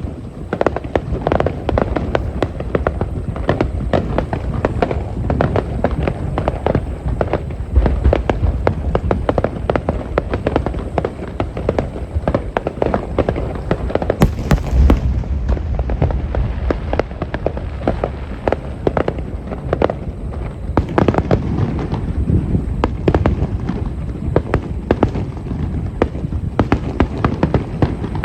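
Aerial fireworks display: a dense, continuous barrage of shell bursts and crackles, with heavier low booms now and then.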